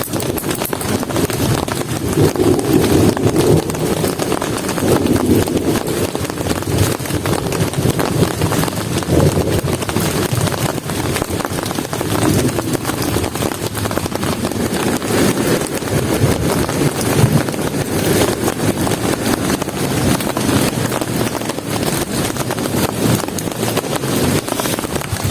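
Heavy rain falling steadily, a dense hiss of drops, with a low rumble that swells and fades several times.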